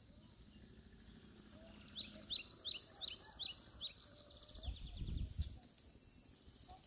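A bird calling a rapid series of short, high chirps that slide downward, for about two seconds, over faint outdoor background. A brief low rumble follows about five seconds in.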